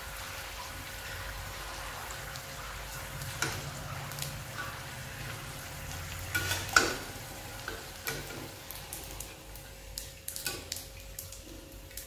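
Cluster beans sizzling as they fry in hot oil, with scattered clinks and scrapes of a utensil stirring them in the pan.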